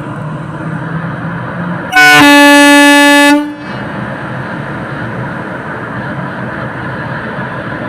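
An Indian Railways locomotive horn sounds one loud, steady blast of about a second and a half as the Awadh Express departs. A steady rumble of the train runs underneath.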